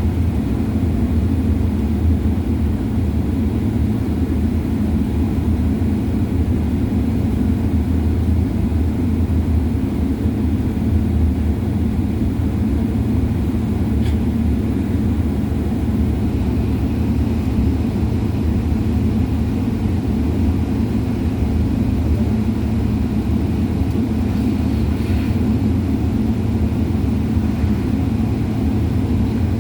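Steady low rumble of a passenger jet's engines and airflow heard inside the cabin.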